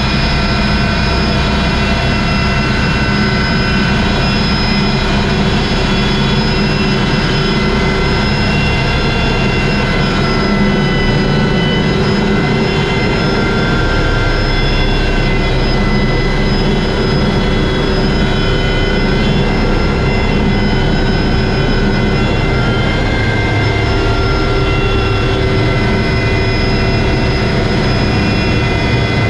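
Helicopter running steadily: a loud, even drone with several high whining tones that shift slightly in pitch now and then.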